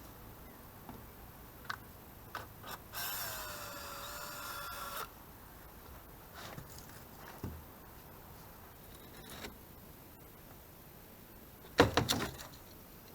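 A power drill runs for about two seconds, its whine dipping in pitch and then holding steady, as screws are backed out of a water-damaged boat deck. Scattered light clicks and knocks, and near the end a short burst of clattering knocks, the loudest sound.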